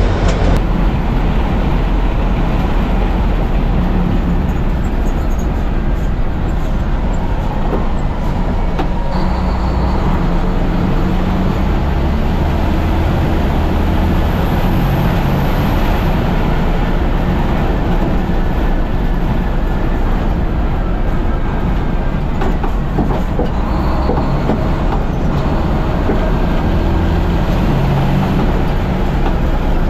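Race truck's heavy diesel engine running hard, a loud low drone whose pitch shifts up and down as the revs change.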